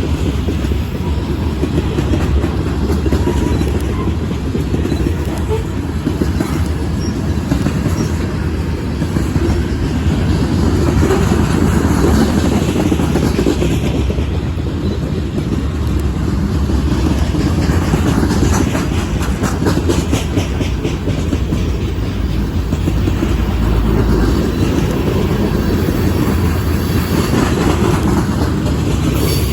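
Freight train cars rolling past on the rails: a steady, loud rumble of wheels on track with rhythmic clicking of wheels over the rail joints.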